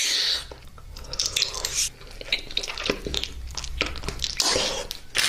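Someone crunching and chewing crunchy food, with irregular crackly bursts and short clicks.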